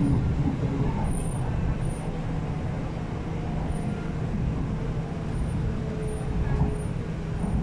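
Steady low hum and rumble inside an MTR R-Train carriage standing at a station platform, the train's equipment running while it waits, with a faint held tone later on.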